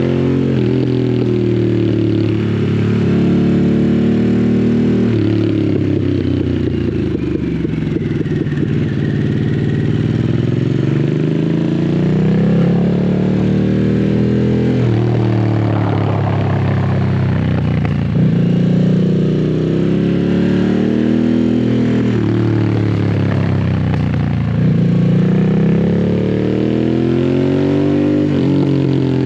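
Harley-Davidson Sportster S's 1250 cc Revolution Max V-twin through a custom slip-on exhaust, held at low revs and repeatedly accelerating and rolling off, its pitch rising and falling every few seconds, with wind rush over the engine.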